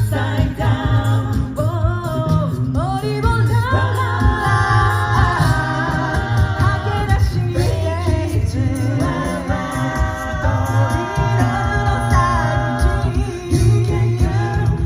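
A cappella vocal group singing in close harmony over a low sung bass line, with a steady percussive beat.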